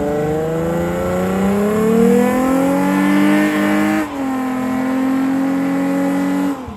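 Car engine accelerating hard: its pitch climbs steadily for about four seconds, drops at a gear change, then holds steady before cutting off suddenly.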